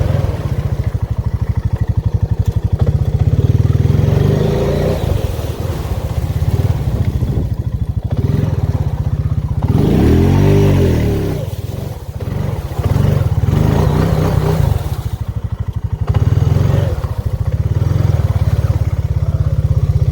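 Honda 4x4 ATV engine running as it is ridden, its revs rising and falling, with one clear rev up and back down about ten seconds in.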